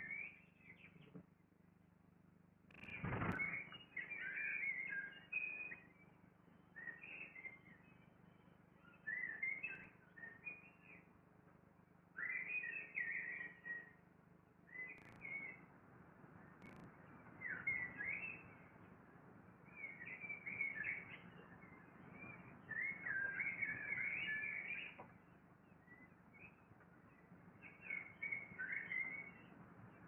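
Birds chirping and twittering in short bursts every second or two, with a single low thump about three seconds in.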